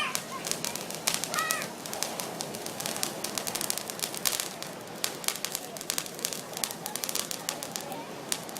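Fireworks crackling, a dense run of sharp pops and crackles, with a brief high-pitched call about a second and a half in.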